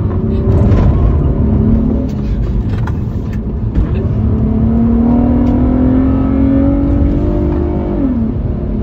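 2005 Infiniti G35 Coupe's 3.5-litre V6 heard from inside the cabin under acceleration on track, over steady road and wind rumble. Engine pitch rises and falls once in the first two seconds, then climbs steadily for about four seconds and drops sharply near the end.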